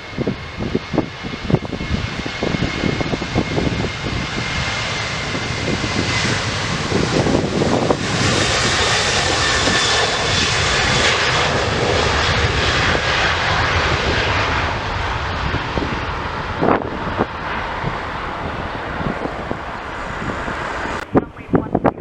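Jet airliner's engines passing: a high whine over a dense rushing noise that builds to its loudest about halfway through, then fades, and cuts off suddenly near the end. Wind gusts buffet the microphone throughout.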